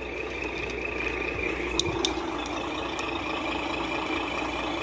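An RC truck's onboard sound module playing a steady simulated diesel truck engine idle through its small speaker, with a couple of faint clicks about two seconds in.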